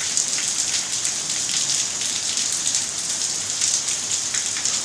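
Heavy tropical rain pouring down and pattering on surfaces, a steady dense hiss.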